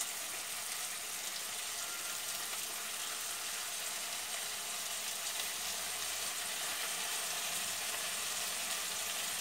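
Fresh green beans frying in hot olive oil in a pot: a steady, even sizzle.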